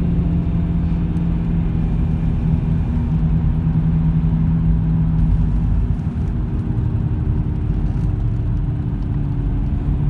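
BMW E46 3 Series car, a steady low rumble with a held tone and a few faint clicks, recorded to catch a creaking noise from the rear of the car.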